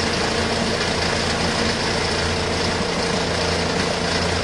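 Spin dryer of a portable twin-tub washing machine running steadily: an even motor hum with the rush of water swirling in a vortex inside the spinning tub.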